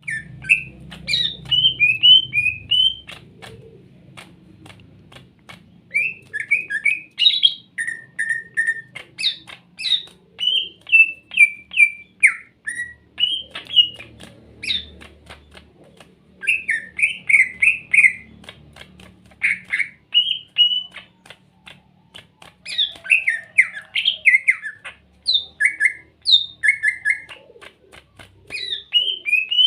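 A cucak ijo (green leafbird) singing a lively, varied song in quick phrases of whistled and chattering notes, separated by short pauses. It is a trigger song played to prompt a caged cucak ijo that is reluctant to sing.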